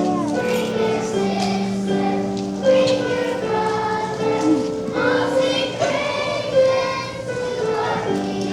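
A choir singing a song with instrumental accompaniment, long notes held and changing in steps.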